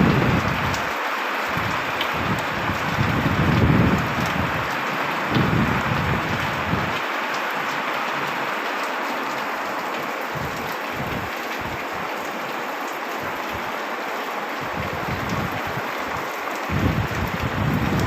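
Heavy rain pouring steadily in a storm, with irregular low rumbles swelling and fading during the first few seconds and again near the end.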